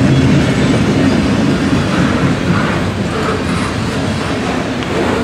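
Freight cars of a manifest train rolling past close by: a loud, steady rumble and clatter of steel wheels on the rails.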